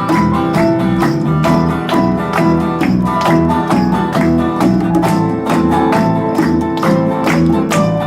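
Small acoustic band playing an instrumental interlude with no singing: strummed acoustic guitar, a melody line, a bass pulse and a steady cajón beat.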